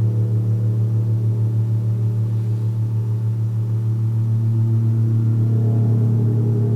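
Gong sounding a sustained low drone with a fast pulsing waver and a rich stack of overtones, which swell in the middle range about five seconds in.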